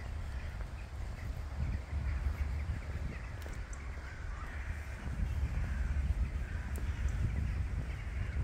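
Birds calling outdoors, a run of harsh calls coming thickest in the middle, over a steady low rumble.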